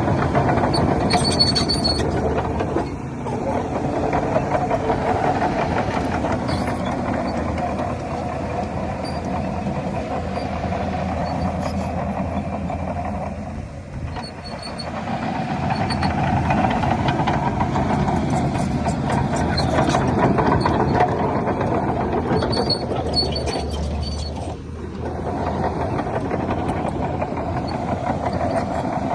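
Heavy diesel earthmoving machinery running under load, its engine noise easing off briefly three times and coming back up, with short high squeaks now and then.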